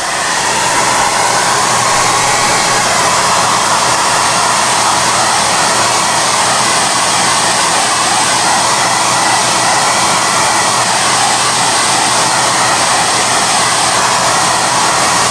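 SOUNATE high-airflow hair dryer (XM-H008) blowing at a steady speed: a loud, even rush of air with a hum around the middle of its range. It comes up to full strength in the first moment.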